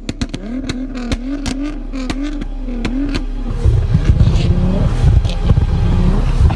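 A modified car's engine revved hard in quick repeated blips, its pitch rising and dipping about twice a second, with sharp exhaust pops and bangs crackling through it. About three and a half seconds in, the revving turns louder and deeper.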